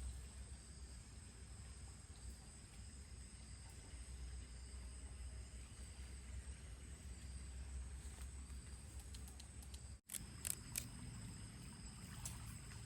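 Faint steady heavy rain, with a low rumble and a thin high whine. After a brief dropout near the end, a few sharp taps.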